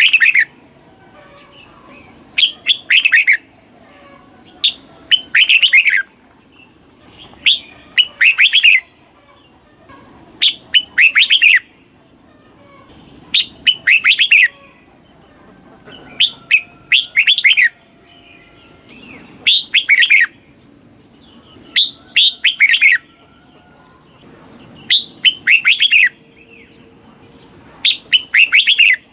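Red-whiskered bulbul singing: short phrases of quick, clear descending notes repeated about every two to three seconds.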